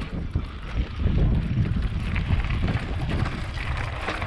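Wind buffeting the microphone, with low rumbling that swells about a second in and irregular light rattles and knocks.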